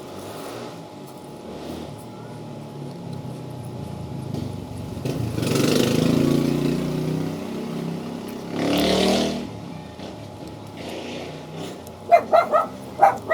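A dog yipping about five times in quick succession near the end, the loudest sound here. Before it come two longer stretches of noise with no clear pitch.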